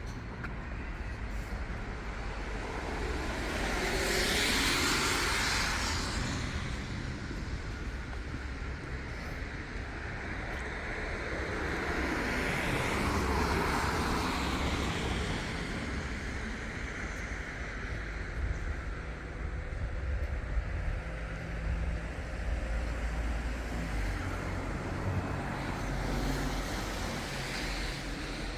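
City street traffic: one vehicle passes by about four seconds in and another around twelve seconds in, each swelling up and fading away, over a steady low rumble.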